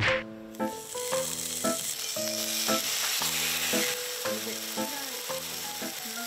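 Slices of canned ham sizzling in a frying pan, the sizzle starting a moment in as the ham goes into the pan.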